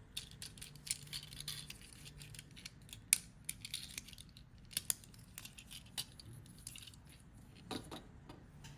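Scattered sharp clicks and short rustles of hands handling a plastic toy and its packaging, irregular throughout, with a cluster of quick clicks near the end.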